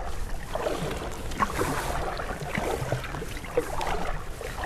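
Canoe paddle dipping and pulling through river water, with small splashes and drips.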